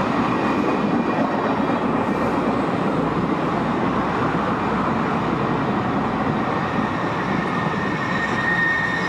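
A steam-hauled passenger train rolling past on the rails: a steady rumble and rush of wheels and cars. A thin, high squeal comes in near the end.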